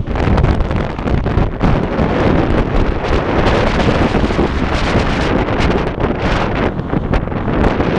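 Strong wind blowing across the microphone: a loud, rough rumble that rises and falls irregularly.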